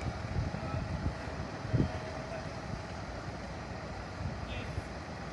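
Low rumble of a running vehicle engine, with wind buffeting the microphone, and a single thump a little under two seconds in.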